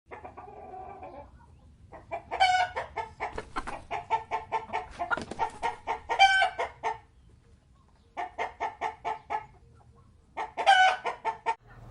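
Chicken clucking in quick runs of short clucks, about four or five a second, broken by three louder drawn-out squawks.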